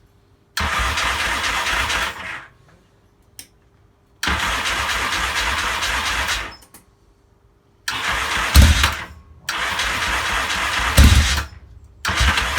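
Yamaha XS650 parallel-twin engine cranked on its electric starter with the choke on, in four separate bursts of a second or two each. In the third and fourth bursts it coughs with a few loud firing pops but does not catch.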